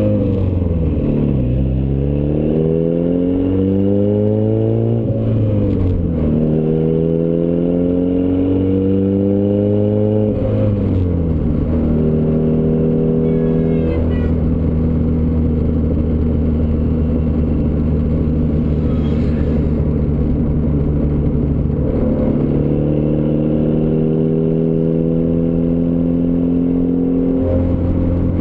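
Turbocharged Ford Escort ZX2's 2.0-litre four-cylinder engine through a custom 3-inch side-exit exhaust, pulling up through the gears. The note climbs and drops back at three shifts in the first ten seconds or so, then holds steady at cruise, and rises gently again later on.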